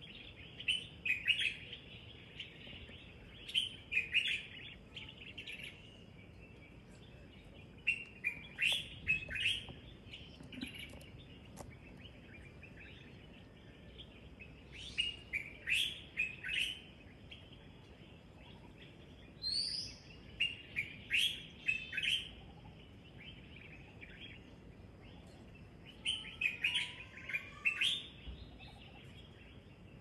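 Songbirds singing: short bursts of quick, high chirping notes that come back every few seconds, with one rising high note about two-thirds of the way through.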